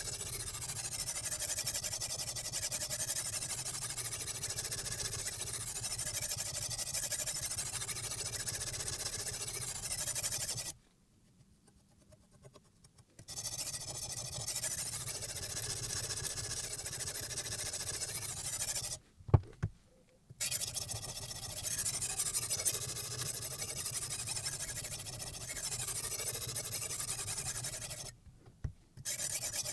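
A water stone on a guided knife sharpener rubbing along the steel edge of a Damascus chef knife: a steady gritty hiss. It breaks off briefly three times, with a single sharp knock about two-thirds of the way through.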